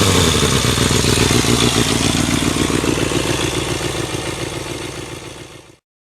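Kawasaki Balius ZR250A's inline-four engine running through a WR'S aluminium aftermarket full exhaust, its revs settling down to a steady idle. The sound fades a little, then cuts off abruptly near the end.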